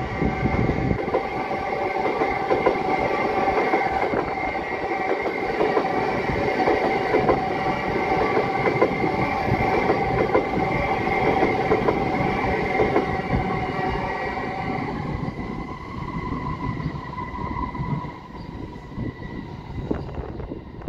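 Third-rail electric multiple-unit train running past close below, wheels rattling and clicking over the rails, with a steady high whine. The sound fades after about fifteen seconds as the train draws away.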